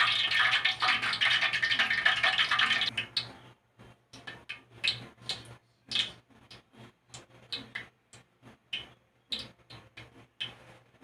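A steady hiss, like running water or fat sizzling, cuts off about three seconds in; then scattered, irregular sharp clicks and ticks.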